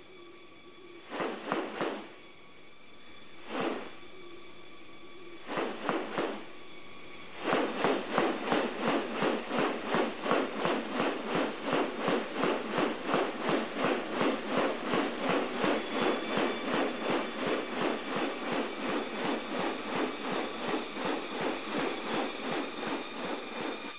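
Rainforest insects: several steady high-pitched drones, joined by a few short rasping bursts and then, from about seven seconds in, a continuous rasping pulse at about three a second.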